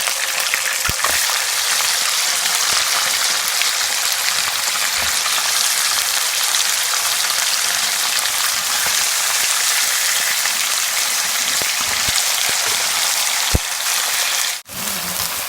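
Chicken pieces and garlic sizzling steadily in hot oil in a karahi while being browned, with a few faint knocks. The sizzle cuts out for an instant near the end.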